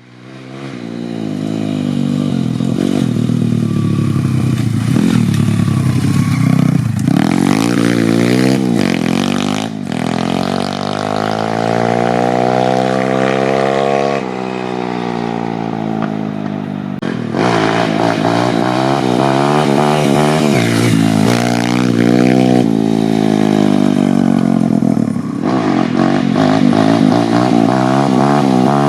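YCF 150 Classic pit bike's 150cc four-stroke single-cylinder engine being ridden hard. It revs up in long rising sweeps as it accelerates, dropping back in pitch between pulls at shifts or off the throttle.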